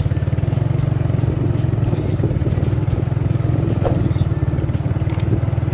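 Mitsubishi 190 PS diesel truck engine running steadily with an even, fast low pulse.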